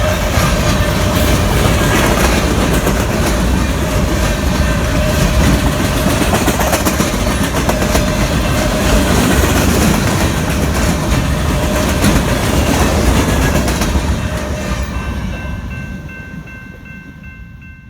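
Union Pacific freight train's cars rolling past on the rails: a steady heavy rumble with wheel clatter. It fades away over the last few seconds, leaving a few faint steady high tones.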